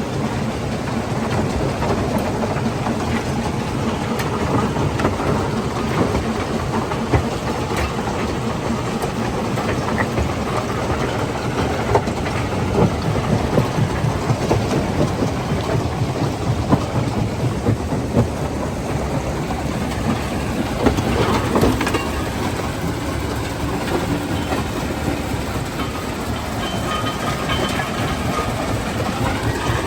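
Stone crushing plant machinery running, a steady heavy din with frequent sharp knocks and clatter of rock being broken.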